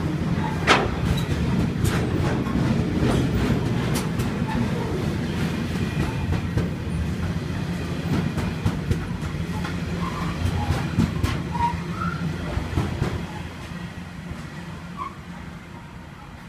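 Coal train wagons rolling along the rails: a steady low rumble with sharp clicks over the rail joints and a few brief wheel squeals, fading away over the last few seconds.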